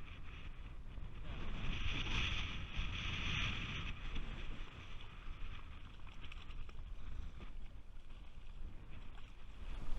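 Wind buffeting the microphone over choppy water against a small fishing boat, a steady low rumble with a louder rush of noise between about two and four seconds in.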